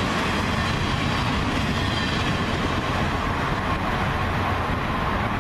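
CSX freight train's loaded flatcars rolling past on the rails, a steady rumble and rattle of wheels on track.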